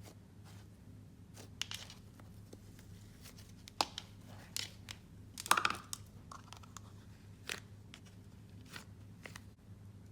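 Cloud slime being stretched and squished by hand, making scattered sticky crackles and small popping clicks, with the loudest cluster about halfway through.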